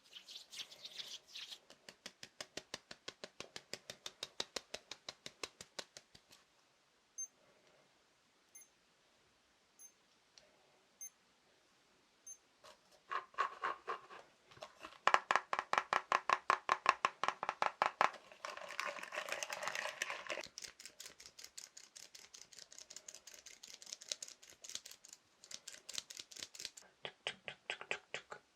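Fast tapping on assorted small objects, in quick runs of several taps a second, the tone changing as the object changes. There is a quieter stretch in the middle with only a few single taps, and the loudest, densest run is a little past halfway.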